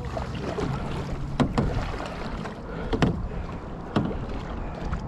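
Kayak paddling: paddle blades dipping and splashing into the water, with about four sharp hits spread through, over a steady rush of wind and water.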